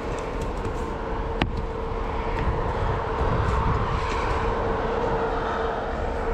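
A motor running steadily with a constant hum, over continuous rushing noise and a low rumble; a few light clicks stand out, one about a second and a half in.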